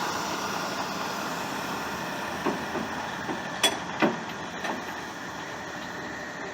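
Steady rumble of a heavy truck engine that slowly fades, with a few sharp knocks in the middle.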